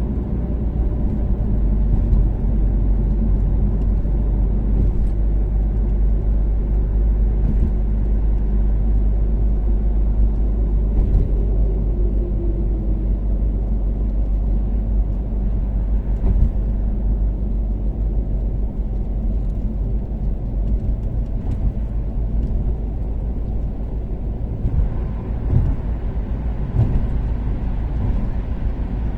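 Toyota Caldina's 3S-GTE turbocharged four-cylinder engine and tyres running steadily at expressway cruising speed, a continuous low drone with a few faint knocks.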